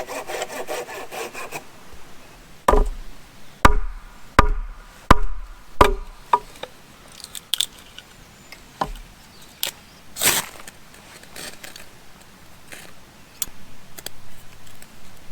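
A hand saw cutting wood in quick, even strokes that stop about a second and a half in, followed by a run of six sharp wooden knocks about a second apart. After that come scattered lighter clicks and cracks and a brief scrape about ten seconds in.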